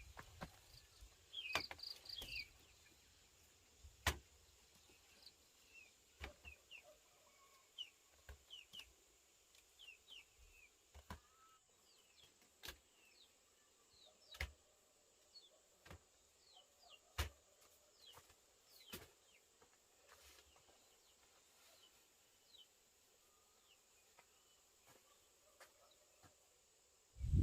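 Faint small-bird chirps, many short high notes sliding downward, scattered throughout, with occasional sharp clicks or taps every second or few.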